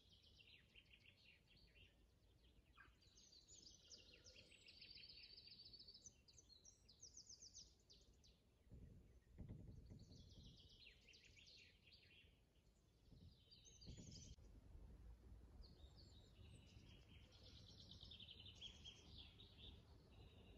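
Faint songbirds singing, repeated high trilled phrases and chirps with short gaps between them. A low rumble swells twice, about nine and fourteen seconds in.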